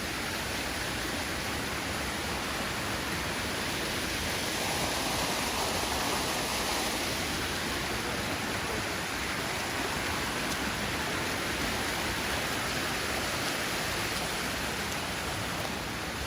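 Steady rush of a small waterfall and creek, swelling slightly around the middle.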